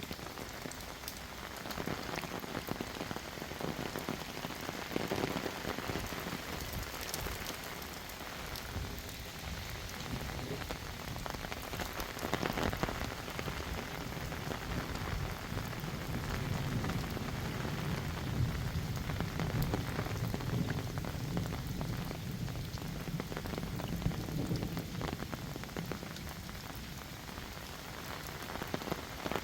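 Heavy rain falling steadily, thick with the ticks of individual drops hitting surfaces. A low rumble swells under it about halfway through and fades again.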